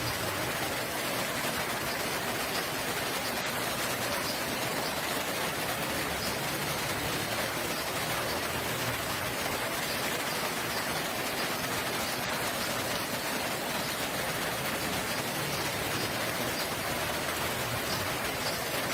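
Steady rain falling, an even patter.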